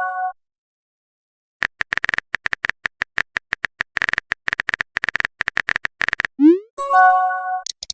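Messenger-style sound effects: about a second and a half in, a run of rapid, irregular typing clicks lasting some five seconds, then a short rising swoop and a chime of several steady tones, the sound of a chat message being typed and sent.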